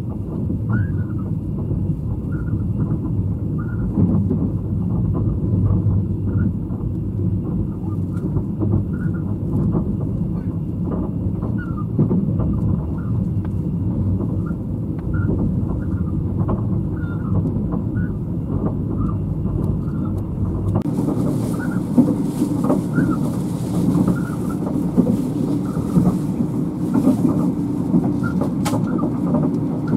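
Running noise of a sleeper-train passenger coach heard from inside the car at speed: a steady low rumble of wheels on rail, with short squeaks and creaks. About two-thirds of the way in, the sound changes to a brighter hiss over the rumble.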